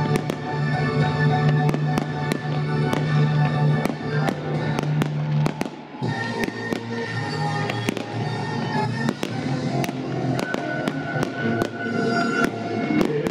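Fireworks bursting overhead, a fast irregular series of sharp bangs and crackles over music with sustained tones.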